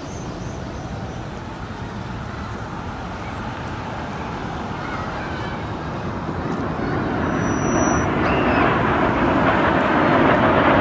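Aircraft approaching overhead: a steady engine rush that grows gradually louder and brighter.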